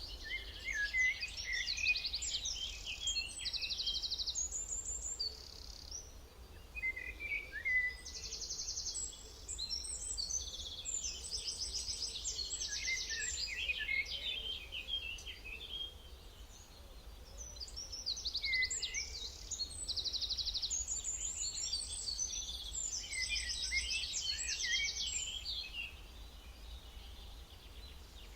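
Several songbirds singing and chirping together in dense trills, in three bouts with short lulls between them, over a faint steady low rumble.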